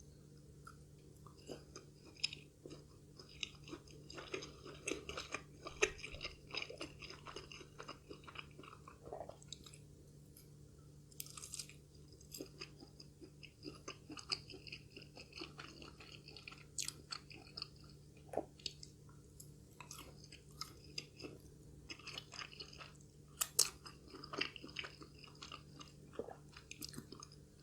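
A person chewing a cheese-filled chicken sausage, with many small, irregular wet clicks and crunches of biting and chewing close to the microphone.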